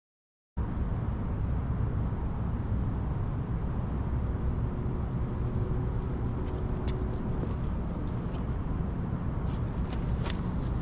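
Steady low vehicle rumble, engine and road noise with no clear rhythm, after a brief dead silence at the start. A faint thin hum comes in for a few seconds in the middle, and there are a few light clicks near the end.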